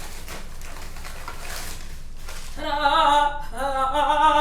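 A singing voice holding two long, steady notes one after the other, starting a little over halfway through.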